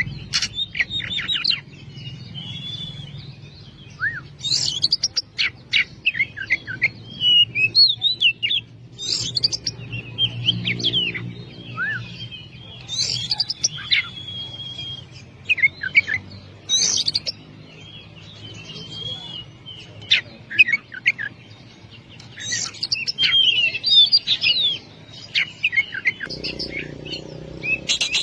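Oriental magpie-robin (kacer) singing a loud, varied song of quick whistles, trills and sharp clicky notes, in phrases broken by short pauses, over a faint low hum.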